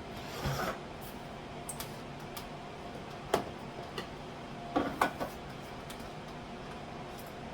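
Kitchen jars and containers being handled and set down: a brief rustle about half a second in, then a few light knocks, one alone and a quick pair later on, over a faint steady hum.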